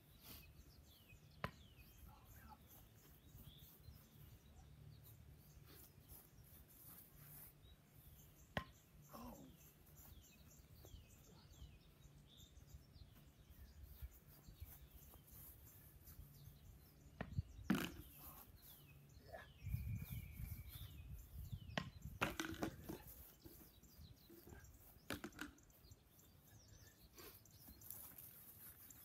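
Very faint outdoor ambience with small birds chirping throughout. It is broken by a few sharp knocks of a wooden paddle hitting a tennis ball, and a short cluster of knocks and rustling about two-thirds of the way through.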